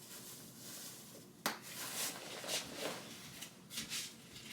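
Faint rustling of movement and clothing with a few soft, sharp clicks and knocks of handling, the clearest about one and a half seconds in.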